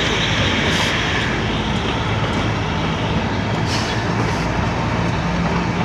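Narrow-gauge toy train running along the mountain track, heard from a coach: a steady rumble and rattle of wheels and coaches with a low, even drone underneath.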